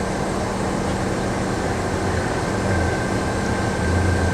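Heavy crane machinery running steadily during a track lift: a constant low diesel hum with a thin high-pitched whine that becomes clearer partway through.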